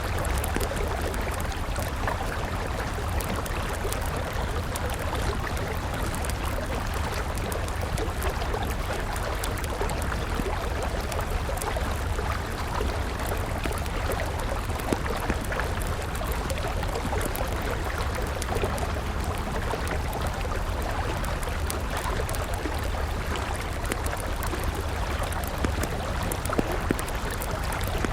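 A river's steady rushing flow, with a wood fire crackling over it and a few sharper pops.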